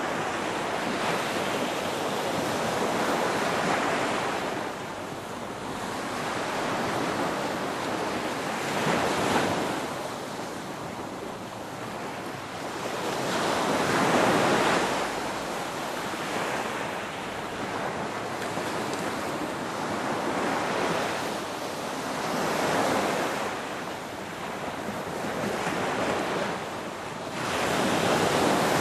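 Ocean waves breaking and washing on the shore, the surf swelling and ebbing every few seconds.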